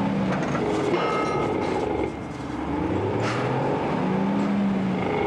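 Heavy engine on a pile-driving rig running and revving up and down, with its pitch rising and falling and a brief drop in power about two seconds in, plus a few scattered metallic knocks.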